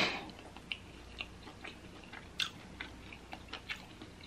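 Close-miked chewing: soft, wet mouth clicks spaced irregularly, with a sharper sound right at the start.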